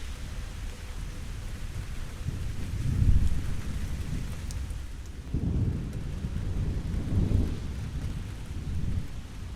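Steady rain with thunder rumbling in low, rolling swells, once about three seconds in and again for a couple of seconds past the middle.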